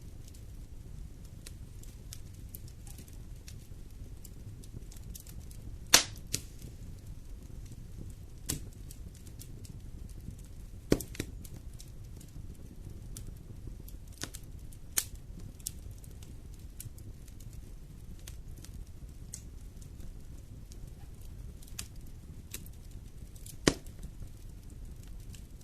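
Wood fire in a fireplace crackling: scattered snaps and a few sharp pops, the loudest about six seconds in and others near eleven and twenty-four seconds, over a low steady rumble of the flames.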